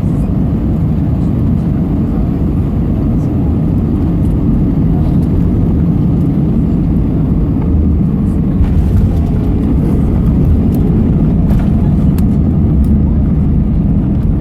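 Steady, loud low rumble of an Airbus A320's engines and airflow heard inside the passenger cabin during landing, with a few faint rattles in the second half.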